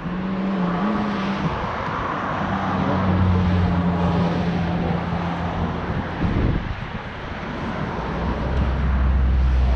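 Car driving: a steady low engine hum with road and wind noise, swelling briefly about six seconds in.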